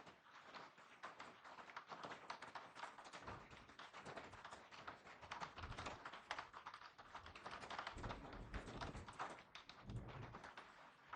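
Rain falling on a car's windscreen and roof, heard from inside the cabin as a faint, dense and irregular ticking of drops. A few short low rumbles come and go underneath.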